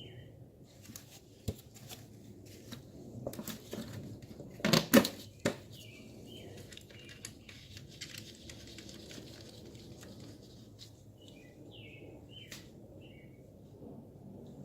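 Scattered sharp clicks and knocks of parts being handled, the loudest a quick cluster about five seconds in, with small birds chirping on and off in the background.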